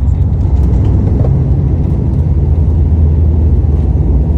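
A steady, loud, low engine drone, with no changes in pitch or level.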